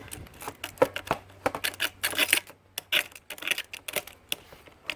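Irregular sharp clicks, taps and short metallic scrapes of hand tools working on a small vacuum motor, opening it up to check whether its windings are copper.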